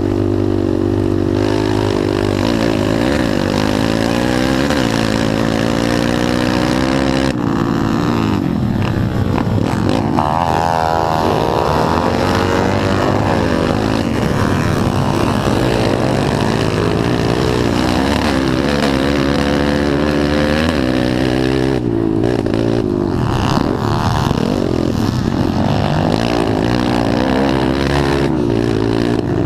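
Several pit bike engines running together during a motocross race. They hold a fairly steady pitch for the first several seconds, then from about seven seconds in many overlapping engine notes rise and fall as the bikes accelerate, shift and back off.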